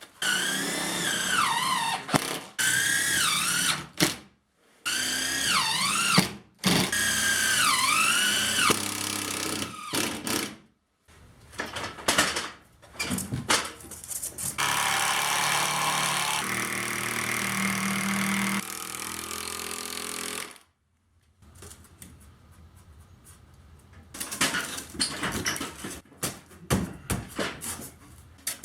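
Power drill running in several short bursts, its pitch dipping and recovering as it loads up. A longer steady run follows, then lighter irregular knocks and taps near the end.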